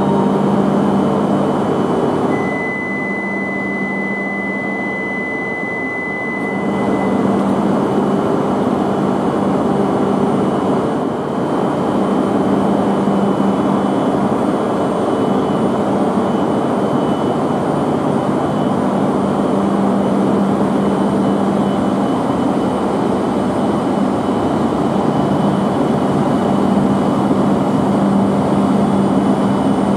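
Shinkansen train noise at the platform: a steady hum with a haze of running noise. A thin, steady high tone sounds for about four seconds shortly after the start.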